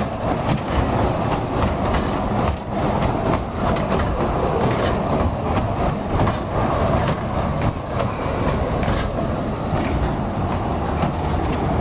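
Small tourist train running, a steady rumble with many short rattling clicks throughout.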